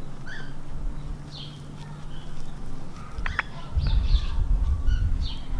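Birds chirping in short, scattered calls, with two sharp clicks a little past three seconds in and a low rumble for about a second after them.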